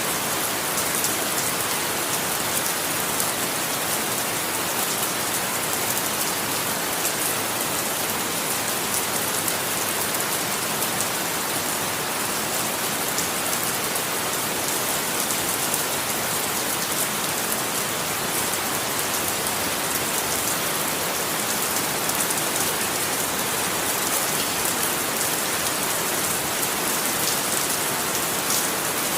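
Steady, heavy rainfall: a dense, even hiss of rain with many fine drop patters on a surface.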